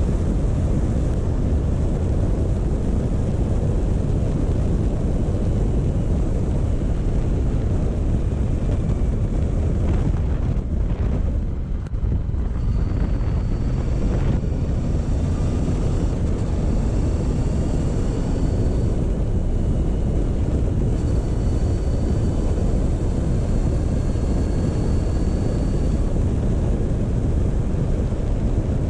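Motorcycle engine running at a steady road pace, with wind rushing over the microphone. The level dips briefly about twelve seconds in.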